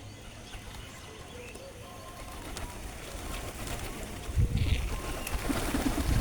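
Pigeons cooing, the low, throaty calls becoming much louder and closer about four seconds in.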